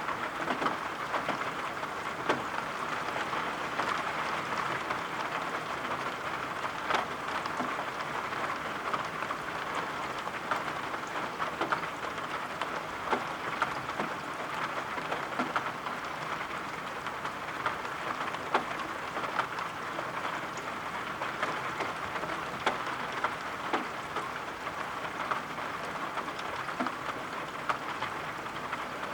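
Steady rain, an even hiss with many scattered sharp drop taps.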